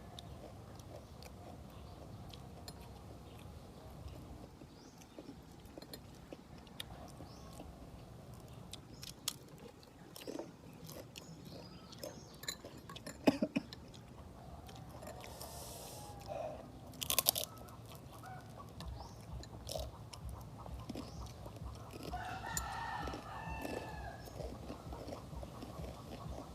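Close-up eating sounds: chewing and crunching with scattered sharp clicks over a low steady hum. A rooster crows once, about 22 seconds in.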